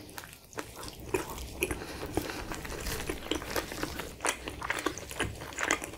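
Close-miked chewing of a mouthful of spicy chicken wrap with salsa, made up of many short, irregular crunches and wet mouth clicks.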